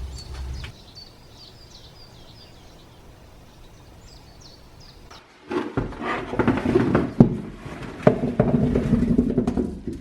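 Small birds chirping in short, quick calls over quiet background. About halfway through, a much louder stretch of rustling and clattering with sharp knocks takes over.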